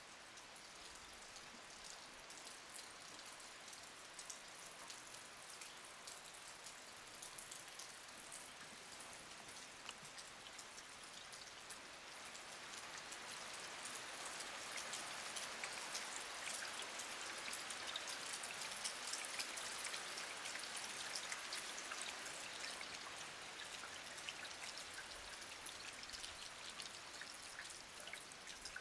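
Heavy rain falling, heard from under a roof overhang, with many close drops pattering. It grows louder about halfway through, then eases a little toward the end.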